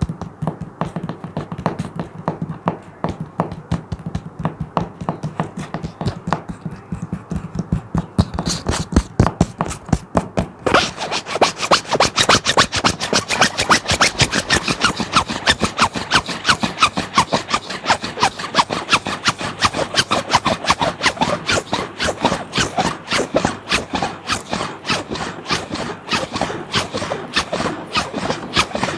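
Rapid, rhythmic scratching on a plastic sheet, many short strokes a second. It is duller for the first several seconds, then turns brighter and crisper from about ten seconds in.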